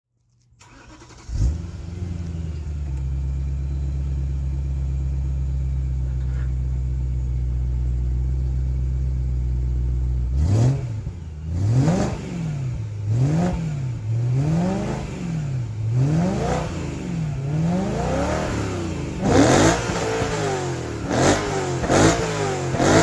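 BMW M3 engine starting with a sharp flare about a second in, then settling into a steady idle. From about halfway on it is revved again and again, the pitch climbing and dropping about once a second, with sharper blips near the end.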